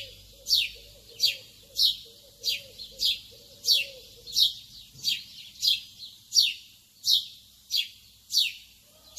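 Bird chirping over and over: short, sharply falling high notes, about two a second, in a steady repeating pattern.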